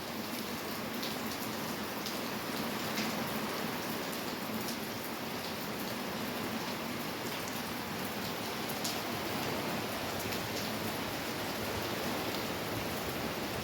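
Steady rain falling: an even hiss with occasional individual drops ticking on a surface.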